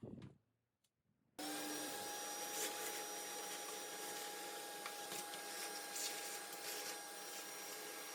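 Vacuum cleaner switched on about a second and a half in, then running steadily with a constant whine.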